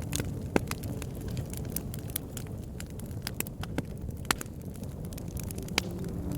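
Wood fire crackling: irregular sharp pops and snaps over a low, steady rumble of the flames.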